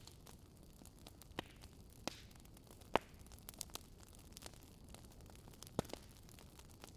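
Wood campfire crackling: scattered sharp pops and snaps, the loudest about three seconds in, over a faint steady hiss.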